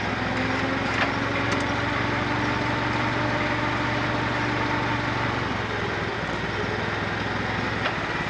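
Forklift running while it is manoeuvred, a steady engine hum under a faint whine that rises slightly and stops about five and a half seconds in. A few light clicks come near the start and near the end.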